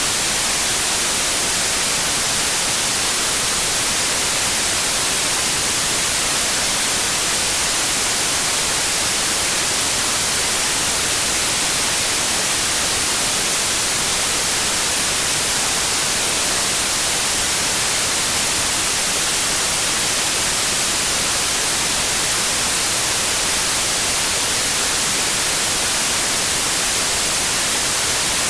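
Synthetic white noise: a steady, loud, even hiss, brightest in the treble, unchanging throughout.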